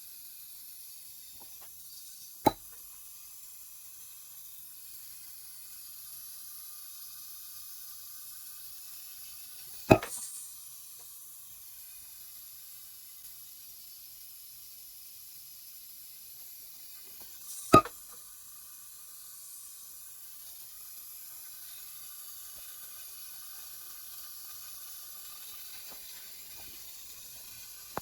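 Faint steady hiss, broken three times by a single sharp knock or click, some seven to eight seconds apart.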